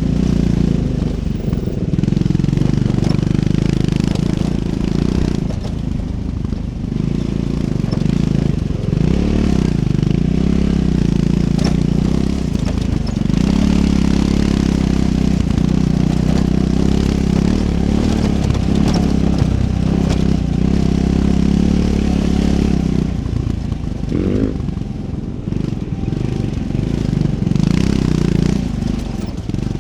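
Triumph Scrambler 400 X's single-cylinder engine running while riding off-road, its pitch rising and falling with the throttle, easing off for a couple of seconds near the end. Scattered clicks and knocks run over it.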